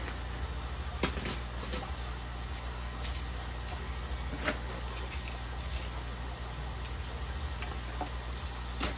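Loose model railroad track pieces and train parts being handled, giving scattered sharp clicks and light clatters over a steady low hum.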